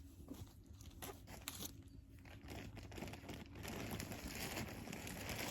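Crinkling and rustling of a plastic bag of potting mix being handled. It is faint, with a few scattered clicks, and grows louder about halfway through.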